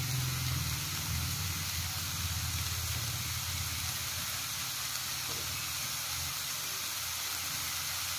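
Chopped grilled chicken sizzling as it fries in a metal wok: a steady hiss over a low rumble.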